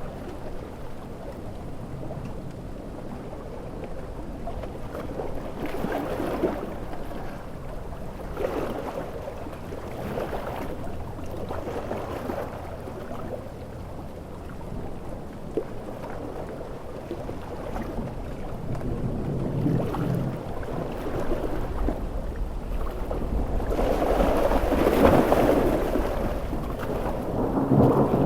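Large ocean waves breaking in a stormy wind, surging every few seconds. The biggest surge comes about 25 seconds in, with a deep rumble under it.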